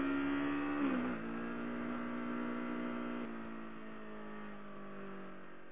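Yamaha R6 sportbike's inline-four engine running at steady revs. Its pitch drops about a second in, then sinks slowly as the revs fall, and it grows fainter toward the end.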